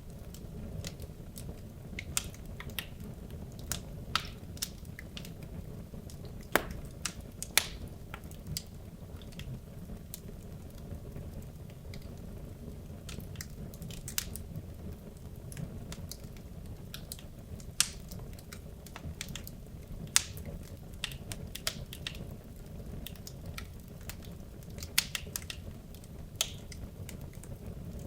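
Wood logs burning in a fireplace: a steady low rumble of flame with irregular crackles and occasional sharper pops from the burning wood.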